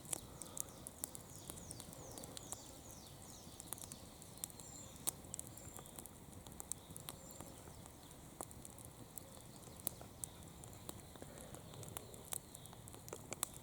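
Campfire crackling: irregular sharp pops and snaps of burning wood, several a second, over a faint steady hiss.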